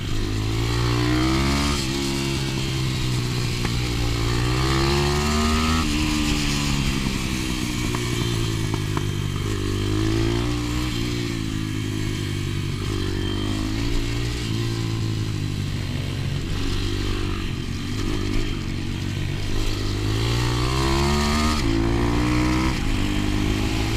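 125 cc pit bike engine at racing speed, its pitch climbing in short steps as it shifts up, then dropping back and climbing again every few seconds.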